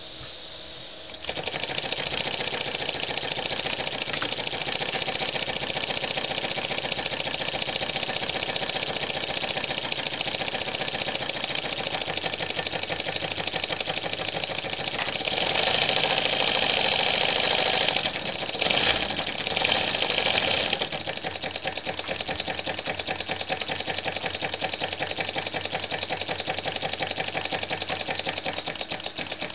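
Single-cylinder, double-acting, slide-valve brass model steam engine running fast: a rapid, even mechanical clatter with a hiss of exhaust. It picks up about a second in and runs louder and hissier for several seconds around the middle before settling back.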